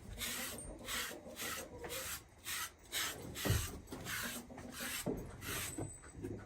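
Rhythmic scraping strokes, about two a second, with a low thump about three and a half seconds in and another about five seconds in.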